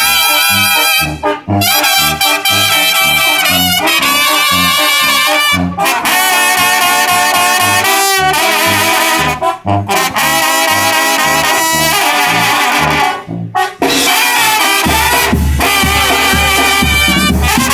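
Mexican banda brass band playing an instrumental passage: trumpets and trombones carry the melody over a bouncing tuba bass line, with brief stops between phrases.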